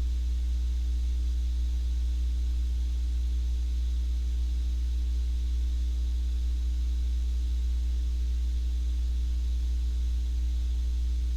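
Steady low electrical hum with a faint even hiss above it, unchanging throughout.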